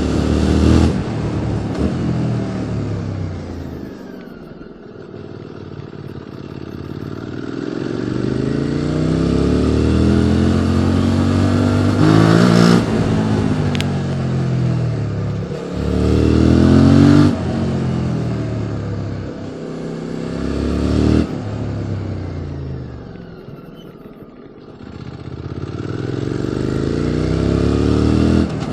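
QJ Motors SVT650X's parallel-twin engine through an Arrow Racetech slip-on exhaust, heard from the saddle while riding. The engine pulls up through the gears, its pitch climbing and breaking off sharply at each shift, and twice falls away as the throttle closes before picking up again.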